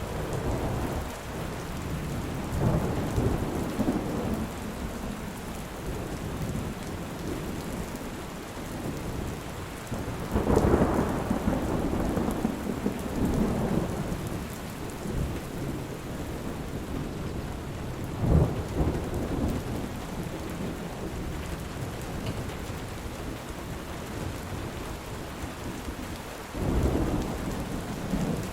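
Heavy rain falling steadily, with thunder rolling over it four times: near the start, a longer roll about ten seconds in, a short sharper clap a little later, and another roll near the end.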